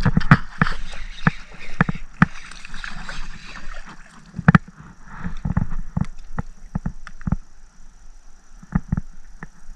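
Irregular knocks and bumps on a kayak's hull, with some water sloshing and gurgling, as gear is handled or the paddle is worked.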